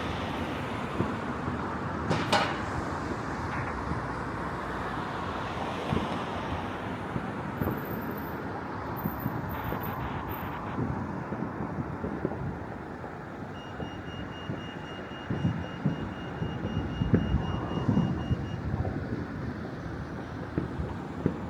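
Fireworks going off across a city: scattered thuds and pops over a steady rumble of traffic and wind. One sharp bang comes about two seconds in, and a burst of thuds comes in the later part. A steady high tone sounds for about five seconds partway through.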